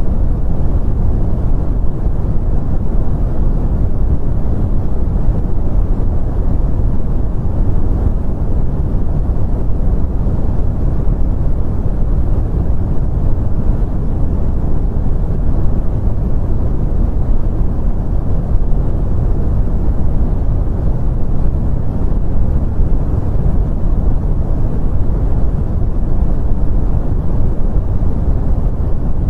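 Continuous brown noise: a steady, deep rumbling hiss with most of its energy in the lows and little above the midrange, unchanging throughout.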